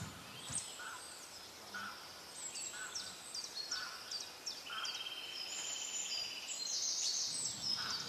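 Small birds chirping in the background: a run of short, quick chirps that fall in pitch, with a fast trill about five seconds in.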